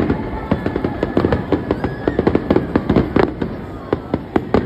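Fireworks going off in quick succession: a dense run of sharp pops and crackles, several bursts a second.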